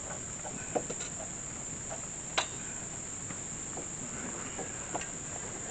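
A steady, high insect chorus of crickets, with a few light knocks, the loudest about two and a half seconds in.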